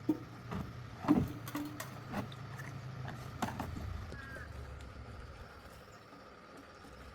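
Scattered knocks and clicks, about half a dozen in the first four seconds, the loudest about a second in, over a low steady hum.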